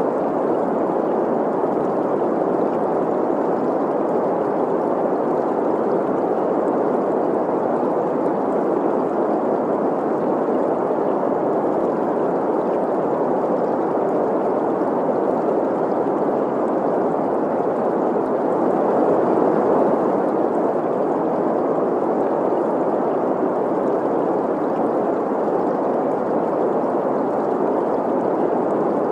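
Synthesized green noise, a steady even hiss centred in the mid range, mixed with the continuous rush and gurgle of a flowing stream.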